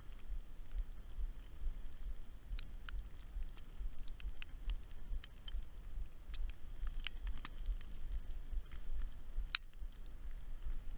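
Low rumble of wind and road vibration on a handlebar-mounted action camera while cycling, with scattered sharp ticks of raindrops striking the camera housing, one louder tick near the end.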